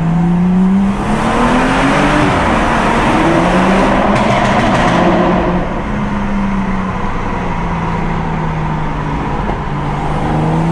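Tuned BMW M135i's turbocharged straight-six accelerating hard, its pitch climbing, heard from inside the cabin. About five and a half seconds in it eases to a steadier, slightly quieter drone, and it rises again near the end.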